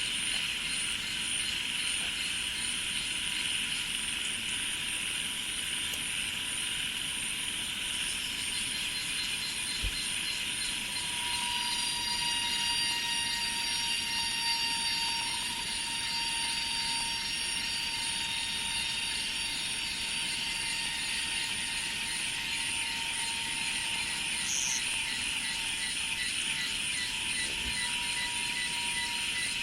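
Chorus of insects in a rice field: a steady buzzing drone with a fast pulsing trill high above it, and a few steady high-pitched singing tones that grow louder about eleven seconds in.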